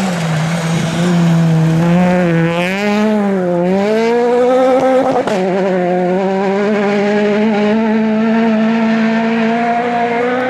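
Rally car engine running hard at high revs, its pitch dipping and climbing with the throttle, with a single sharp crack about five seconds in.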